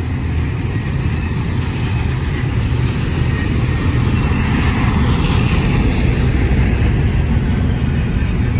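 Double-stack intermodal container train rolling past: a steady low rumble of wheels on rail, with faint metallic squeal and clicking above it, a little louder from about four seconds in.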